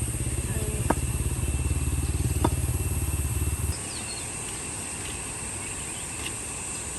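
Small motorcycle engine idling with a fast, even low putter, cutting off abruptly about three and a half seconds in. A steady high hiss continues underneath.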